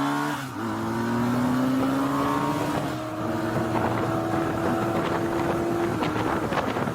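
Motorcycle engine held under steady acceleration, its pitch climbing slowly, then easing off about six seconds in, with wind rushing over the microphone.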